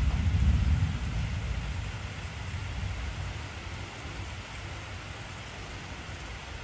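Steady heavy rain with a deep rumble of thunder, loudest in the first second and fading away over the next few seconds.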